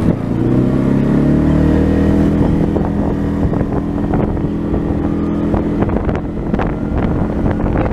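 Trail motorcycle engine pulling away, its pitch rising over the first couple of seconds, then running steadily at speed with light rattling over it.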